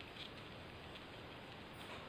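Faint room noise with a couple of soft, short scratchy strokes, one near the start and one near the end, as of someone writing.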